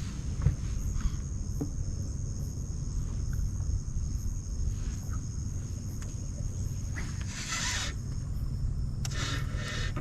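Insects droning in a steady high tone over a low steady rumble, with two short louder hissy bursts in the last few seconds.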